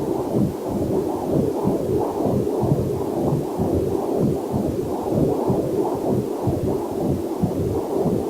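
Fetal heartbeat picked up by a Doppler heart monitor: fast, even pulses about two and a half a second, over a steady low rush.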